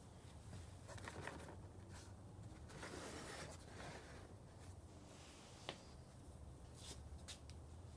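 Faint scraping and handling noises, with one small sharp click a little past the middle, over a low steady hum.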